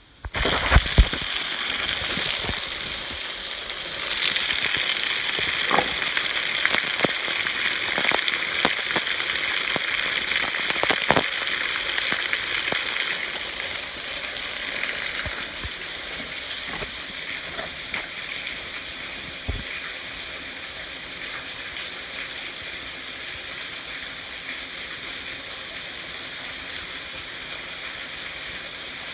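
Waterfall splashing into a creek: a steady rushing hiss that is louder for the first dozen seconds and eases a little after that, with a few light clicks.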